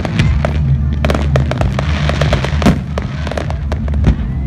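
Fireworks display: aerial shells bursting in quick succession, a dense run of bangs and crackling pops over a steady low rumble.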